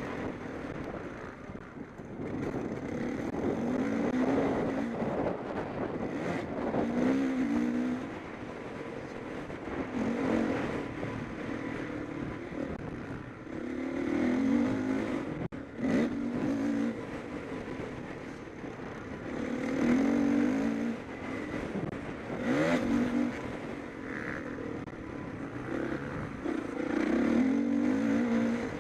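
Motocross bikes racing. Their engines rev up and drop off again and again, with a loud surge every few seconds, as the bikes accelerate and shift gear around the track.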